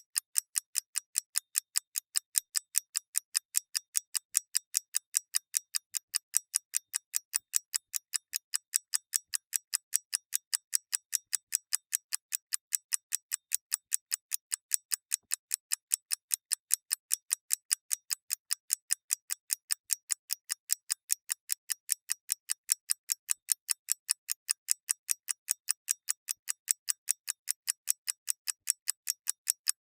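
Mechanical clockwork ticking in a fast, perfectly even rhythm of crisp, bright ticks, several a second, with no change.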